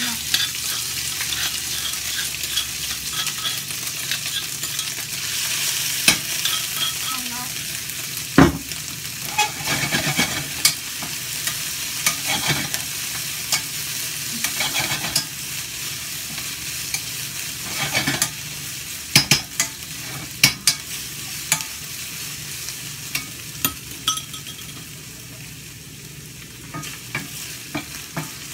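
Pounded herb paste of lemongrass, galangal, ginger, chili and onion sizzling as it fries in hot olive oil in a stainless steel pan, being fried until fragrant. A wooden spatula stirs and scrapes it, knocking against the pan now and then, sharpest about eight seconds in and in a quick run of knocks past the middle; the sizzle quietens near the end.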